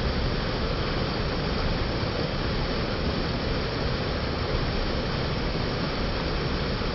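Mountain creek rushing steadily, an unbroken wash of water noise.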